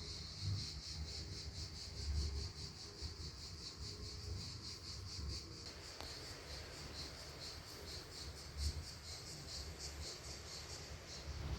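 A cricket chirping in a fast, even run of high-pitched pulses, about four or five a second, over a faint low rumble.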